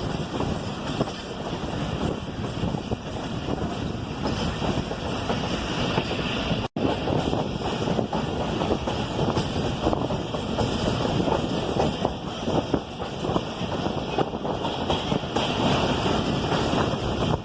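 Pakistan Railways passenger train running on the rails: a steady, loud rumble and clatter of wheels and carriages, with wind on the microphone. The sound drops out for an instant about seven seconds in.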